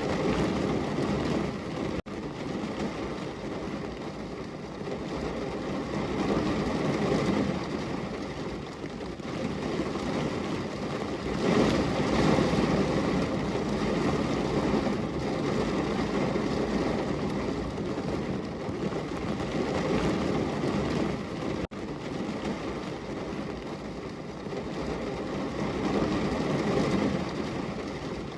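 Heavy rain pouring down on a window, a dense steady patter that swells and eases in slow waves, with two very brief dropouts.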